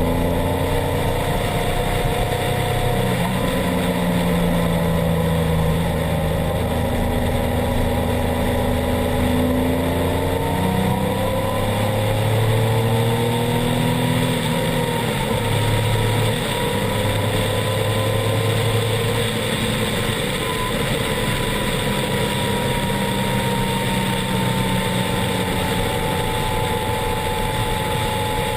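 Triumph Explorer XCA's inline three-cylinder engine through an Arrow exhaust, running with the revs rising and falling over and over.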